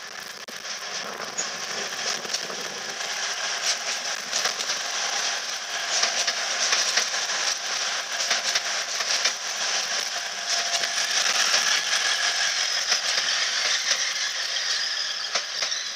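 Grand Central Class 180 diesel multiple unit passing at speed: a steady rush of air and rolling noise with a rapid clatter of wheels over rail joints and pointwork. It grows louder as the carriages go by and fades near the end.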